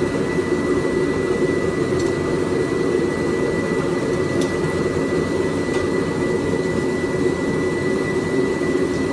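A forge running steadily: a constant rush of air and burning, with a thin high whine over it.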